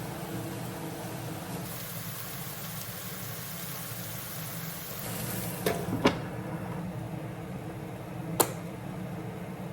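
Steady low machine hum with three sharp clicks, two close together around six seconds in and one more about two seconds later.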